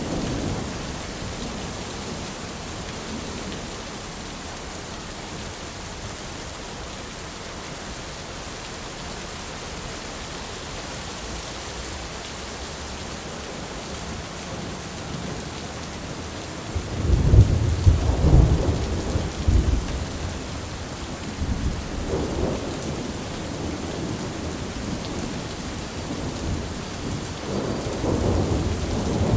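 Steady heavy rain with rolling thunder: a loud, deep thunderclap rumbles in a little past the halfway point, fades in a few seconds, and more thunder follows, building again near the end.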